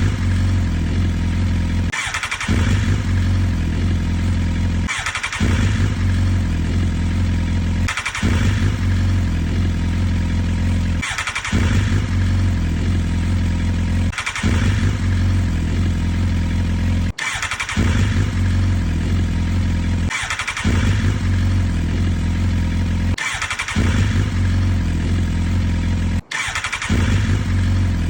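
Motorcycle engine running at a steady pitch, cutting out briefly about every three seconds and coming straight back each time.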